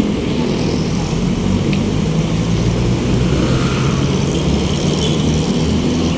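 Road traffic: motor vehicles running close by, a steady low engine hum over continuous street noise.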